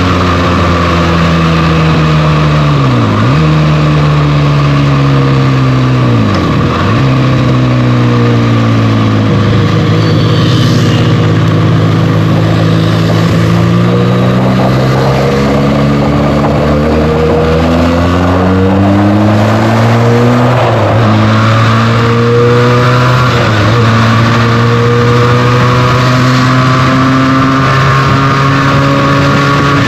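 Benelli TNT 300's 300 cc parallel-twin engine through its stock exhaust while riding, engine note dipping sharply and coming back up several times, with slower rises and falls in between. Wind rushes over the microphone.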